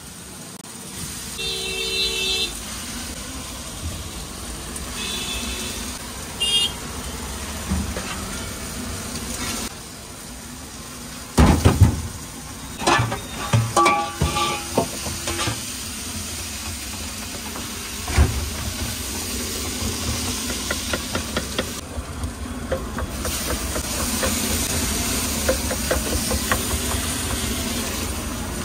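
Food sizzling and steaming on a large flat iron tawa as fried onions, mashed potato and peas are stirred and scraped with a metal spatula, with loud metal clanks around the middle. Street traffic in the background, with a brief horn about two seconds in.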